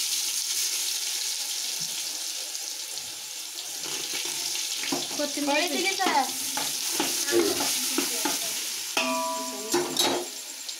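Masala paste sizzling as it fries in hot oil in a large aluminium pot, stirred and scraped with a metal spatula. A voice is heard faintly behind it in the second half.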